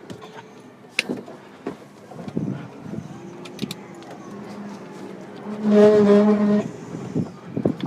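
HGV lorry running as it pulls away, with scattered clicks and knocks. About two-thirds of the way in comes a loud, steady, pitched tone lasting about a second.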